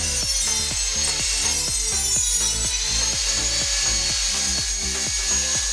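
Dremel rotary tool running with a high whine as it cuts into the wood of a footstool, its pitch dipping under load and rising back about three seconds in. Background music with a steady beat plays underneath.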